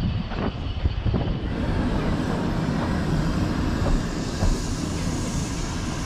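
Ffestiniog Railway narrow-gauge train rolling slowly along a station platform: a steady low rumble of running gear, with a few clicks from the rails in the first second.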